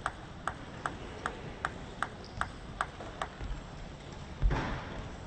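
A celluloid-plastic table tennis ball clicking in a rally, struck by paddles and bouncing on the table at an even pace of about two and a half clicks a second, which stops a little past halfway. About four and a half seconds in comes a louder thump with a short burst of noise.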